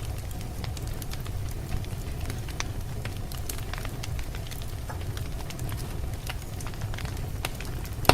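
Wood fire crackling in a fireplace, with irregular small pops and snaps over a steady low rumble. One louder pop comes near the end.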